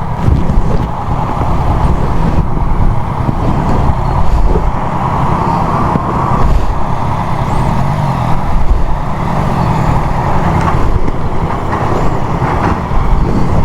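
Motorcycle running while being ridden, with traffic around and wind buffeting the microphone in a steady low rumble.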